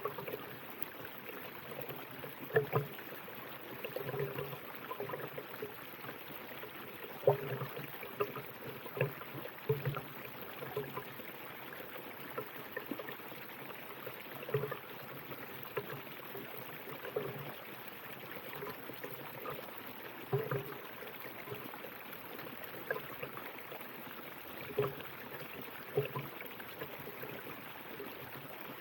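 River water flowing: a steady rush with irregular gurgles and small splashes standing out every second or two.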